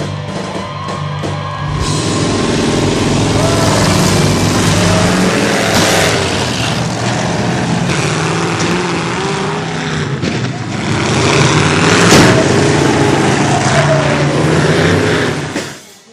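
Motor vehicle engines running and revving over a loud, noisy background, with music mixed in.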